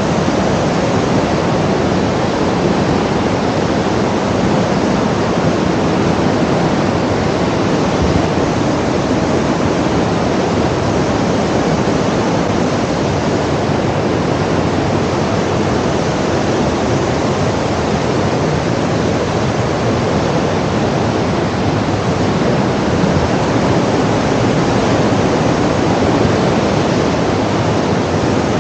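Loud, steady rushing noise that holds even throughout.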